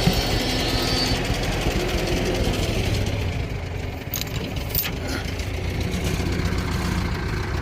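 Tractor engine idling steadily, with two short sharp clicks about four and five seconds in.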